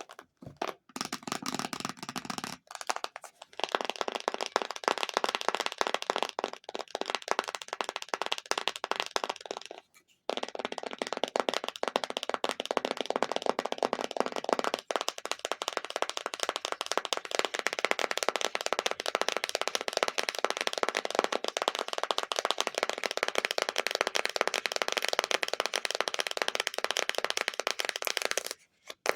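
Very fast, continuous tapping on an object, a dense rattle of small taps. The first couple of seconds sound lower and duller, and the tapping breaks off briefly twice: about three seconds in and about ten seconds in.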